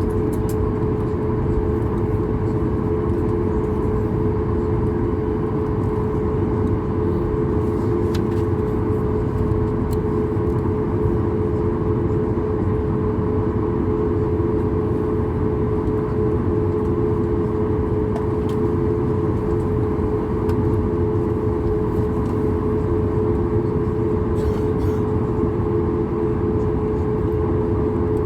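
Steady cabin noise of a Boeing 737-8200 MAX on the ground before takeoff: its CFM LEAP-1B engines running at low power, heard as an even rumble with a constant hum, and no rise in power.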